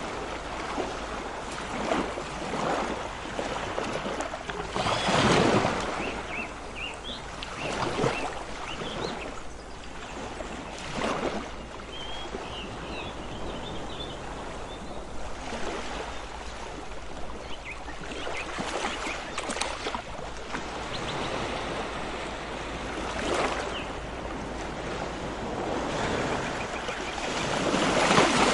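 Ocean waves washing onto the shore: a steady wash of surf with a swell every few seconds, the biggest one near the end.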